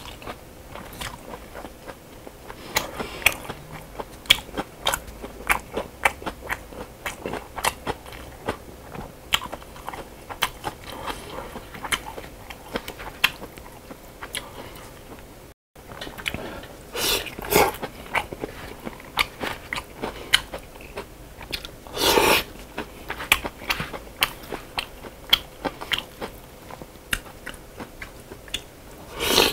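A person chewing and crunching food close to the microphone, with many small wet mouth clicks. The sound drops out completely for a moment about halfway through, and a few louder bursts come in the second half, the strongest about two-thirds of the way through.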